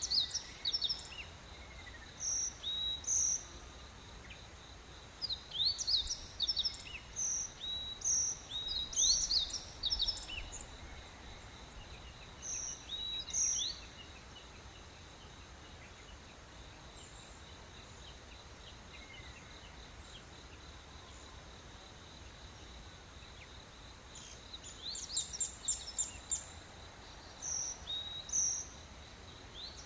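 Tropical rainforest morning chorus: birds calling in bursts of short chirps and quick rising whistles, over a steady high-pitched insect drone. The birds fall silent for about ten seconds in the middle, leaving only the insects, and start again near the end.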